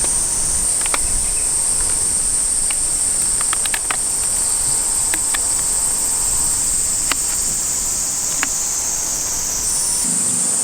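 Insects shrilling in one steady, high-pitched drone, with a few faint clicks and taps scattered through.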